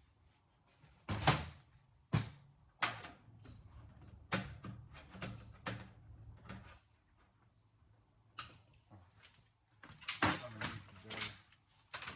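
Irregular knocks and clatters of metal parts and tools being handled while a home theater unit is taken apart, some strikes ringing briefly.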